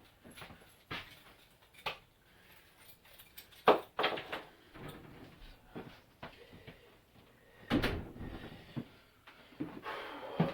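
Irregular knocks and bumps with rustling between them, the loudest knocks about four and eight seconds in.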